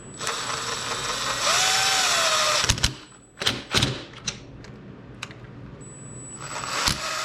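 A power drill driving bolts into the recoil starter. It runs for about two and a half seconds with its motor pitch rising and falling, then there are a few sharp clicks, and it runs again near the end.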